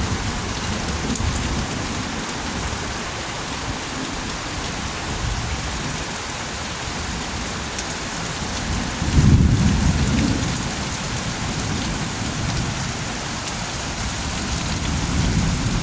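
Heavy rain pouring steadily. A low rumble about nine seconds in is the loudest moment.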